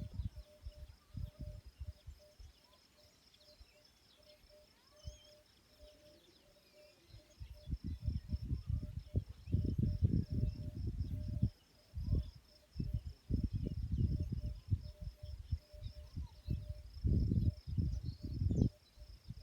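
Outdoor country ambience: a steady, pulsing high insect trill like crickets, with a lower dotted call and faint bird chirps. Low gusts of wind buffet the microphone; they die down for a few seconds early on and return heavily after about seven seconds.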